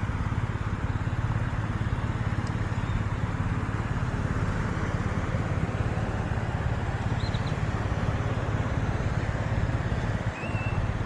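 Steady low engine rumble of a vehicle with road-traffic noise, holding even and easing off slightly near the end.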